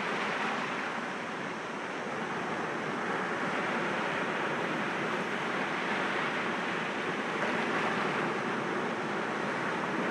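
Sea waves washing against rocks: a steady rushing of surf that eases slightly a second or two in and then swells again.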